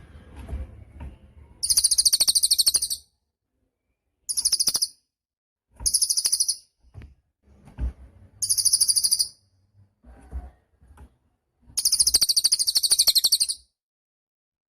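A cililin bird singing: five very high, fast trills, each lasting from about half a second to nearly two seconds, with short pauses between them.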